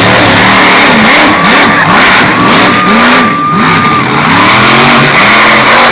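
Monster truck engine revving hard over and over, its pitch rising and falling, very loud.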